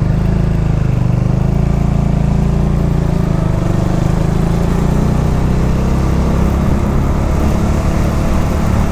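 Motorcycle engine running steadily while riding, a constant low rumble.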